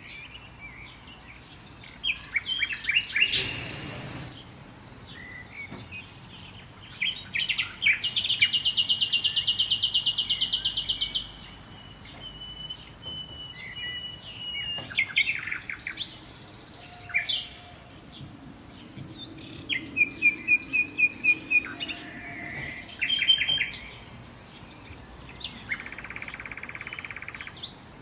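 Several songbirds singing and calling in a series of chirps and trills, including a loud, very rapid buzzing trill lasting about three seconds, over a faint steady background hiss.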